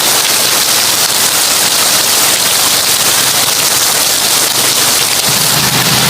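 Heavy rain drumming on a tin roof, a loud dense crackle of drops. A low steady hum joins about five seconds in.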